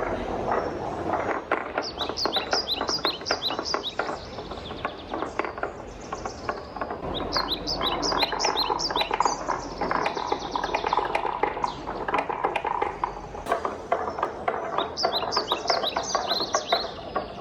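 Wooden balls rolling and clattering down a wooden marble run: a steady rolling rumble with many small clacks as they hit the track. Three bursts of quick, high chirping from a bird run over it.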